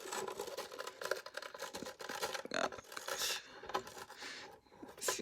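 Plastic parts of a Hoover WindTunnel T-Series bagged upright vacuum's filter compartment being handled: a busy run of small clicks, rattles and scrapes as the filter area is opened and the sponge filter is reached for.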